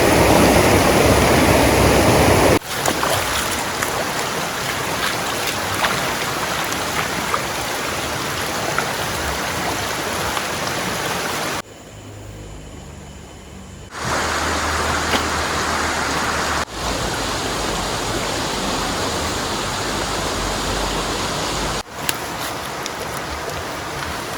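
Steady rushing noise of heavy rain and swollen, fast-flowing river water. The noise changes abruptly several times as the shots cut, and drops much quieter for about two seconds near the middle.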